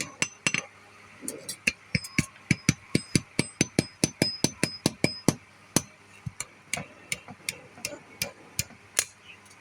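Blacksmith's hammer blows on metal at the anvil, many of the blows ringing high. The blows come quick and even, about four a second, then thin out to slower, irregular strokes after about five seconds in.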